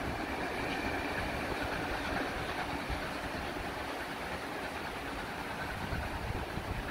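Steam-hauled heritage passenger train rolling away along the line, carriage wheels rumbling on the rails as a steady noise that slowly fades.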